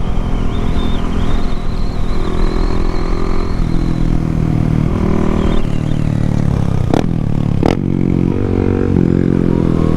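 Yamaha MT-07's parallel-twin engine running on the move, its revs stepping up and down several times, under a steady low rush. Two sharp clicks come about seven seconds in.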